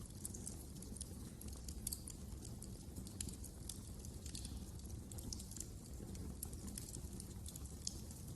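Wood fire crackling: irregular sharp snaps and pops scattered all through, over a steady low rumble of the burning fire.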